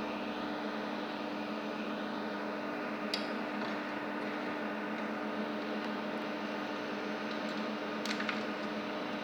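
Steady whirr and hum of cooling fans, with two light clicks from handling, about three and eight seconds in.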